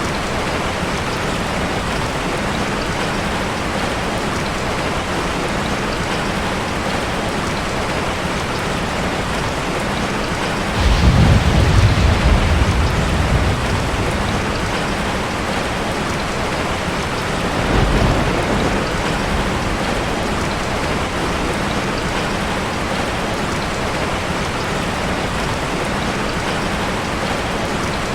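Heavy rain falling steadily, with two low rolls of thunder: a louder one about eleven seconds in lasting a few seconds, and a shorter, softer one about a second or so after the middle.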